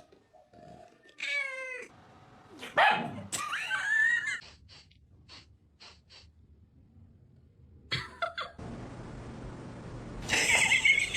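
Domestic cat meowing: a short meow about a second in, then a louder, longer drawn-out yowl around three seconds in. A few faint clicks follow, and in the last few seconds there is a steady hiss with another loud cry near the end.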